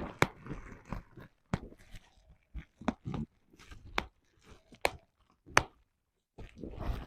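Bubble wrap being squeezed and popped by hand: a sharp pop about once a second, with crinkling of the plastic sheet between pops.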